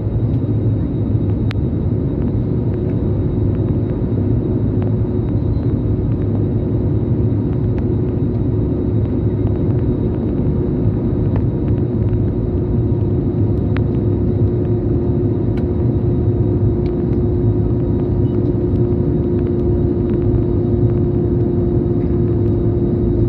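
Steady roar of an Airbus A320's engines and rushing air heard from inside the passenger cabin, with a constant hum running through it.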